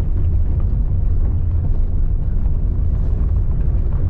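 Go-kart's small engine running while driving, mixed with a steady low rumble of wind buffeting the microphone.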